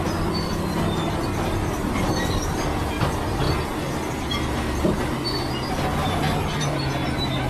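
Bulldozer working: its diesel engine runs steadily under load while the steel crawler tracks clank and give short high squeaks, with two sharper knocks about three and five seconds in.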